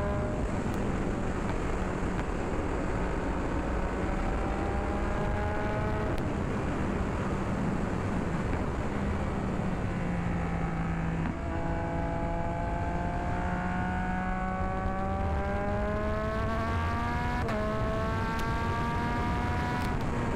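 Motorcycle engine pulling under load with heavy wind noise over it. The engine note climbs slowly, drops sharply with a gear change about three-quarters of the way in, then climbs again.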